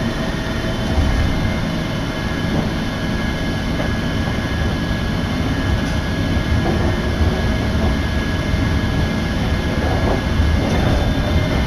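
Jōshin Line electric train heard from inside the passenger car as it pulls out of a station: a steady low rumble of wheels and running gear, with a faint steady whine above it.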